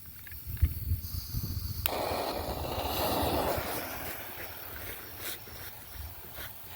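Small Zinger flying firework (Top Gun brand) catching with a click about two seconds in, then spraying with a hiss that builds for a second or so and fades out over about three seconds.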